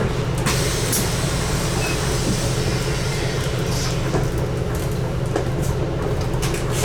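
Scania N250UD double-decker bus's five-cylinder diesel engine running at steady revs, heard from inside the bus as a constant low hum with road noise and a few light rattles and knocks.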